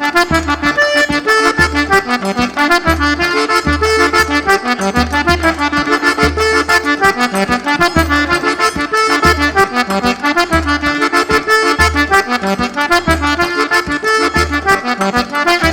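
Forró trio playing: an accordion carrying a busy melody over regular zabumba bass-drum beats and the ticking of a triangle.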